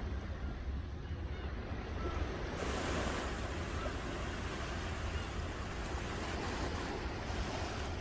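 Ocean surf washing on a shore, a steady noisy wash over a low rumble, swelling fuller and brighter about a third of the way in as a wave comes in.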